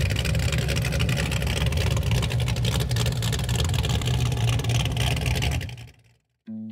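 A car engine running loudly with a deep, pulsing low rumble, fading out near the end. Electric guitar music starts just before the end.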